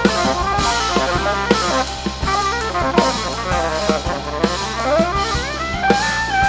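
Jazz quartet of saxophone, vibraphone, piano with electronics, and drum kit playing live: busy drumming with snare, rimshots and bass drum under sliding, stepping melodic lines and a steady low drone. Near the end a line rises and settles into a held note.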